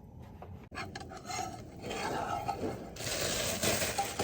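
Spatula scraping and rubbing against a frying pan as a grilled cheese sandwich is worked loose and turned; the scraping grows louder and harsher in the last second or so.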